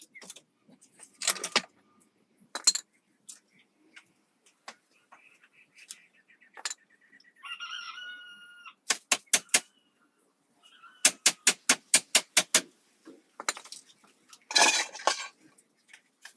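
Sharp knocks and taps, some in quick runs of about five a second. A chicken calls briefly in the middle.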